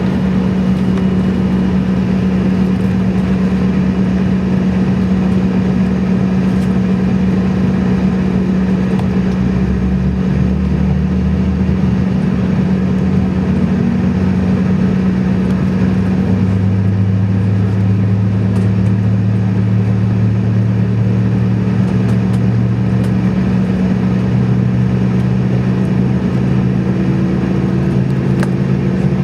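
Airliner taxiing, its engines running at low power with a steady hum made of several drones. Some drones shift up in pitch about halfway through, and one rises slowly near the end.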